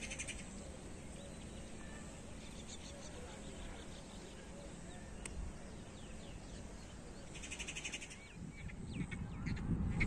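Birds calling: a rapid chattering burst near the start and again about three-quarters of the way through, with thin chirps in between, over a low steady rumble.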